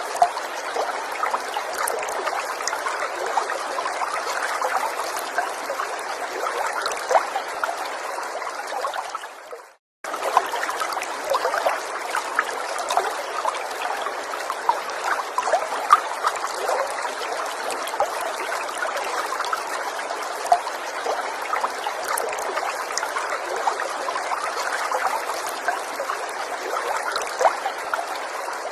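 A small forest stream trickling steadily over stones, with small splashes and drips through it. About a third of the way in it fades out to silence for a moment and starts again, and it fades down again at the end: the seam of a looped recording.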